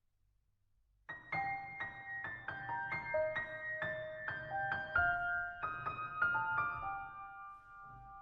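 Near silence, then background piano music starts about a second in: a slow melody of single struck notes that ring out, growing softer near the end.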